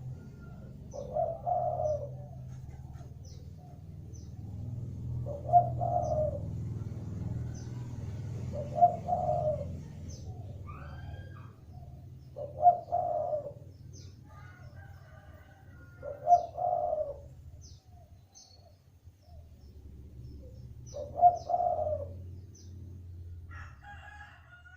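Spotted dove cooing its repeated phrase six times, about every three to five seconds, as a lure call. Faint high chirps of small birds sound between the coos over a low steady hum.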